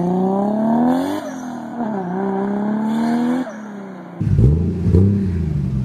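Single-turbo Toyota Supra 2JZ straight-six with an HKS exhaust accelerating hard, pitch climbing through a gear, dropping at an upshift about a second in and climbing again before it drops away as the car gets far off. About four seconds in, a different car's engine takes over at a lower pitch with one short rev.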